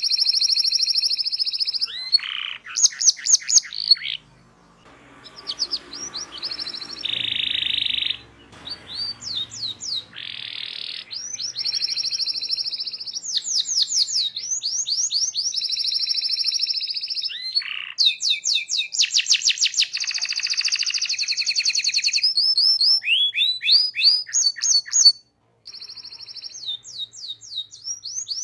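Domestic canary singing a long song of rapid rolling trills and runs of quick sweeping chirps, changing phrase every second or two, with a brief break about 25 seconds in.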